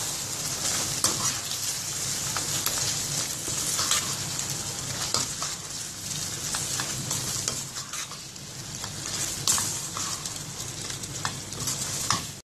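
Chicken kadai curry sizzling and frying in a steel kadai while a spatula stirs it, with occasional scrapes and knocks of the spatula against the pan. The sound cuts off suddenly just before the end.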